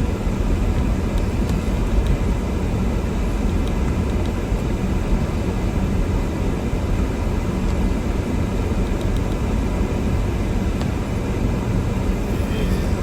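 Toyota Tundra pickup driving slowly through deep snow: a steady low rumble of engine and road noise.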